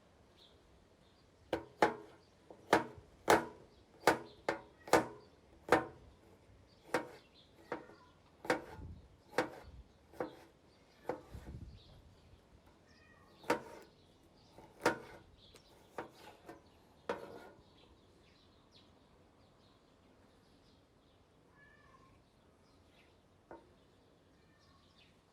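Heavy machete-cleaver blade chopping: a quick, irregular string of about twenty sharp strikes, the loudest in the first few seconds, thinning out and stopping about two-thirds of the way through.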